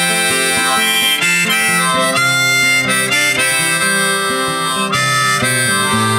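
Instrumental break of a song: harmonica playing a melody of held notes over acoustic guitar.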